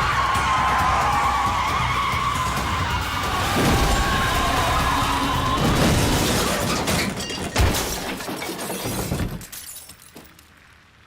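Car tyres squealing in a long skid, then impacts with shattering glass, the loudest crash about seven and a half seconds in, over dramatic music. The noise dies away about nine and a half seconds in.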